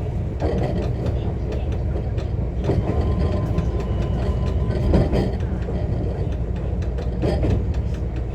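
JR West 125 series electric railcar running, heard from inside the car: a steady low rumble of wheels on track with scattered clicks and knocks from the rails. A faint steady whine sounds briefly in the middle.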